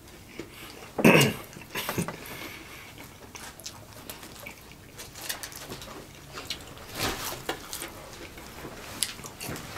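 Chewing and mouth sounds of two people eating chicken nuggets: scattered soft clicks and smacks, with one louder burst about a second in.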